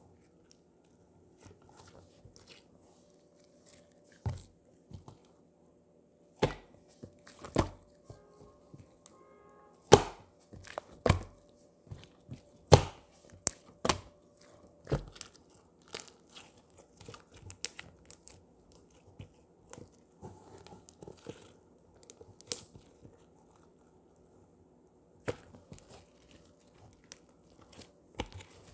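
Slime being squished and pressed by hand, giving irregular sharp pops and crackles with quieter sticky clicks between, over a faint steady hum.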